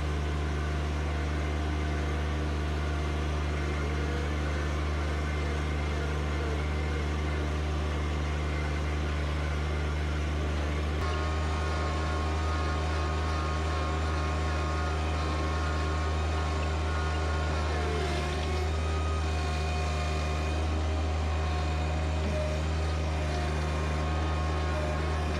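John Deere 1025R compact tractor's three-cylinder diesel engine running steadily, with a slight change in its note about eleven seconds in.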